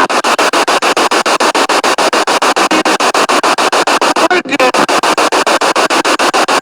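Spirit box sweeping rapidly through radio stations: loud hissing static chopped into even pulses about nine times a second, with brief scraps of broadcast sound between the chops.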